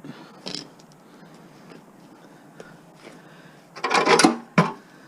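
Metal mower parts and tools being handled, with a short clank near the start and a quick cluster of clanks and rattles about four seconds in.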